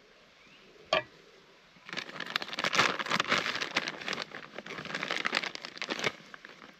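Dry crinkling and rustling of tortilla chips being handled and layered into the pot, with a single sharp knock about a second in.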